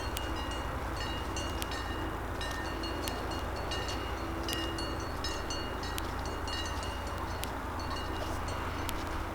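Cowbells clanking irregularly as cattle move and graze: short metallic clapper strikes, each ringing at the same few fixed pitches, over a steady low rumble.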